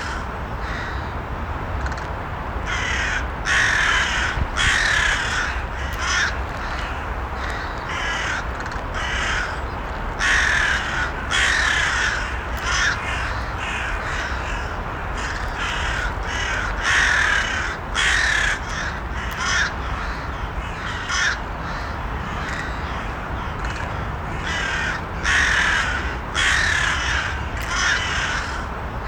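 Crows cawing: many short, harsh caws in quick succession, often overlapping, over a steady low rumble.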